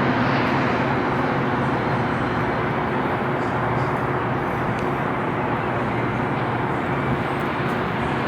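Steady rumble of vehicle and road noise with a faint low engine hum, even throughout.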